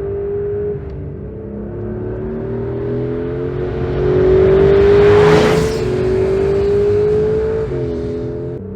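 Porsche 911 Carrera 4 GTS Hybrid's rear-mounted flat-six engine and exhaust pulling under acceleration, its note climbing steadily and dropping at an upshift about a second in and again near the end. It is loudest midway, where a rush of wind and tyre noise swells and fades.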